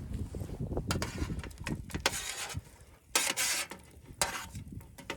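A knife and diced vegetables scraping and clattering on a metal cooking sheet used as a cutting board: irregular scrapes and clicks, with a few longer rasping scrapes in the middle.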